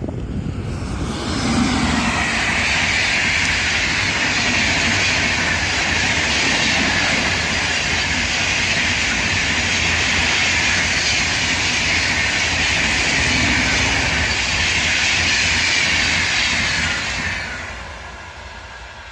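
A train passing at high speed. A steady rushing noise builds quickly about a second and a half in, holds for some fifteen seconds, then dies away near the end.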